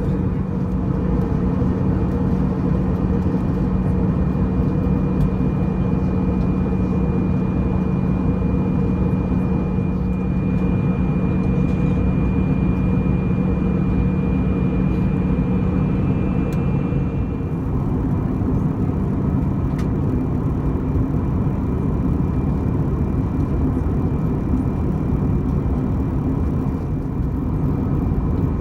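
Steady engine noise and airflow inside the cabin of an Airbus A320-214 with its CFM56-5B turbofans running: a constant hum with a few held tones. About two-thirds of the way through, the tones change as the engine note shifts.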